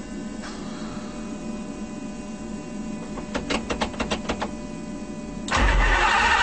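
McLaren F1's electric fuel pumps running with a steady whirring whine just after being switched on, a quick run of clicks around the middle, then the car's BMW V12 starts up about five and a half seconds in.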